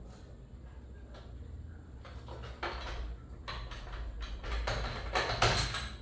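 Metal tools and engine parts knocking and clinking in an irregular run of sharp clicks, which starts about two seconds in and is loudest near the end, over a low steady hum.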